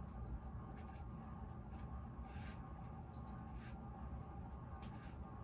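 Moss Tropical Breeze ceiling fan running, with a steady motor hum and short scratchy rubbing sounds recurring about once a second. Its bearings are bad, and the owner is sure the capacitor is failing.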